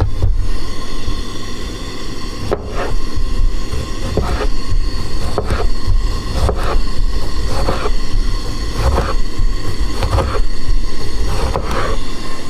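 Knife chopping onion, tomato and garlic on a cutting board, single cuts at about one a second, over a steady low rumble.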